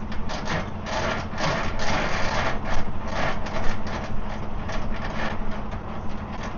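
Semi-trailer landing gear being hand-cranked down, its gearing clicking and scraping irregularly, over the steady idle of the diesel tractor's engine.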